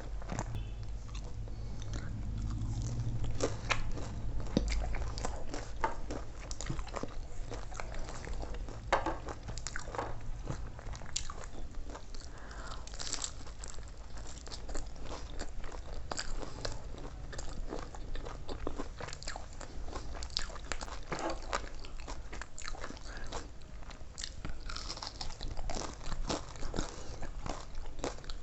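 A person biting and chewing crunchy fried food close to the microphone, with many short, crisp crunches at an irregular pace over a low steady hum.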